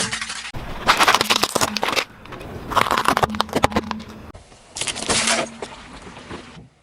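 A car's tyres rolling over and crushing crunchy objects: dense crackling and snapping in about four short takes, each starting and stopping abruptly, with a low steady engine hum beneath.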